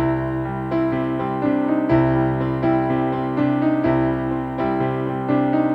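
Piano-toned keyboard playing a steady rhythm of chords: the instrumental intro of a honky-tonk style song.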